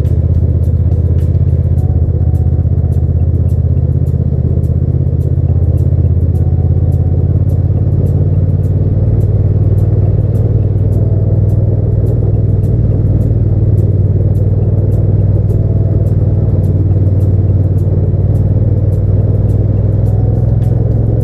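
A steady low drone of a Hyosung GT650 V-twin motorcycle riding at an even pace, mixed with background music that has a steady ticking beat.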